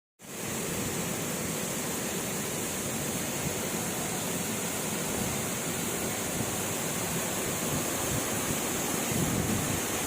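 Waterfall rushing, a steady roar of falling water that starts abruptly just after the beginning.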